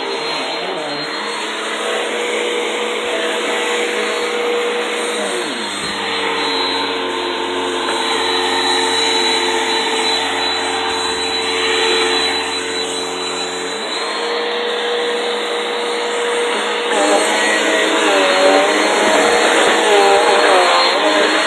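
Vacuum cleaner motor running steadily. Its pitch drops about five seconds in, stays lower with an added low hum, and rises back about fourteen seconds in. Near the end the pitch wavers.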